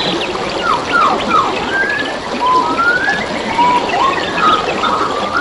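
Steady rush of flowing stream water with wild birds calling over it in short whistled notes that slide up and down in pitch.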